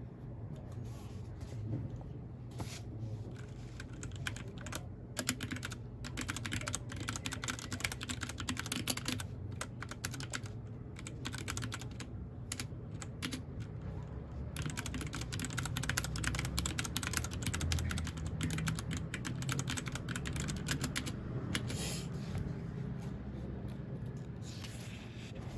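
Typing on a mechanical keyboard: fast runs of key clicks broken by short pauses, starting a couple of seconds in, over a steady low hum.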